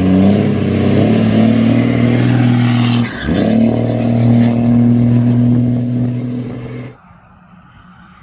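Cummins diesel pickup running loud through a new MBRP 4-inch exhaust with a 10-inch tip, with no exhaust leaks. It is held at high revs, dips briefly about three seconds in, picks back up, and cuts off suddenly near the end.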